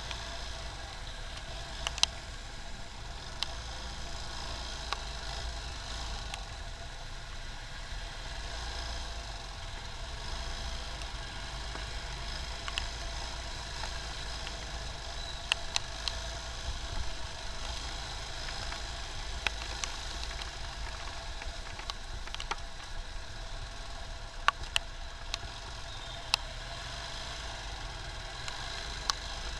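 Motorcycle ride through traffic: a steady low engine and road rumble, with scattered sharp clicks and taps.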